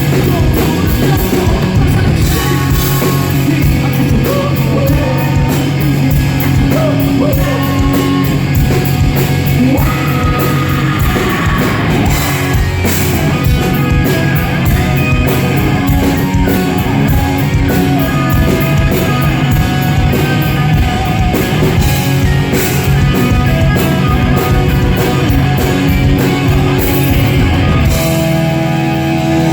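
Live hard rock band playing loud: distorted electric guitars, drums and a singer. Near the end the drums stop and a held chord rings on.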